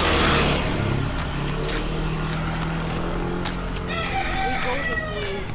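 A rooster crowing once, one long call that rises and then falls, in the second half, over a steady low drone.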